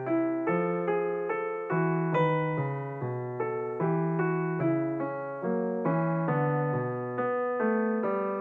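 Background music: a piano playing a steady, even run of notes, about two a second, over a lower bass line.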